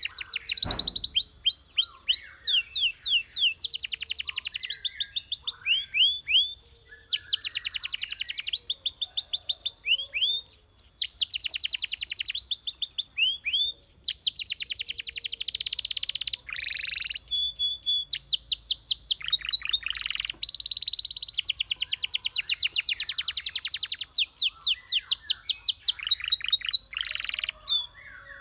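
Belgian canary singing: rapid trills of many quick repeated notes in phrases of one to two seconds, with short breaks and sweeping notes between them.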